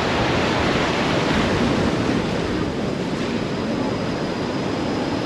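Steady rush of whitewater river rapids, with wind buffeting the microphone. The rush eases slightly about halfway through.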